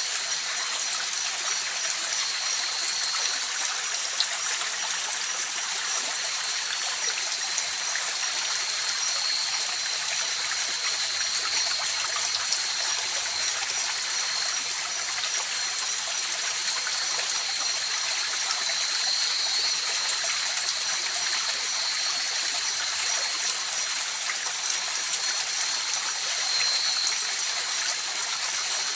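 River water rushing and trickling steadily, with a faint high-pitched steady tone running over it.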